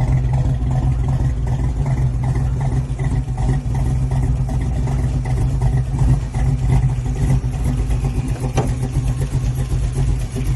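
Chevy 350 V8 in a 1934 Chevrolet Coupe street rod running steadily with a rough, even rumble.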